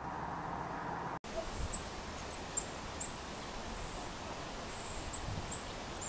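A small songbird giving a series of thin, very high chirps, about eight short notes scattered over four seconds, over steady outdoor background noise. Before this, a steady background hum breaks off abruptly about a second in.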